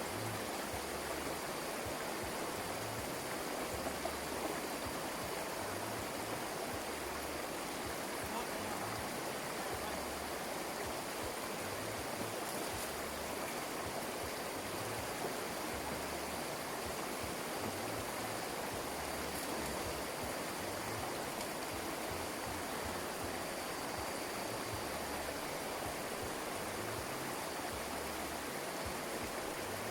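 Flowing water rushing steadily, a stream running full after heavy rain.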